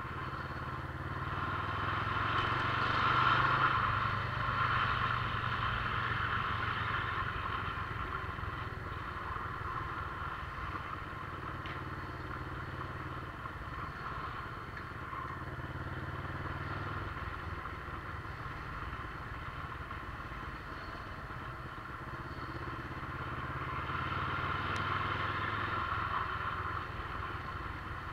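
Motorcycle engine running steadily on the move, mixed with wind and road noise; it swells louder about three seconds in and again near the end.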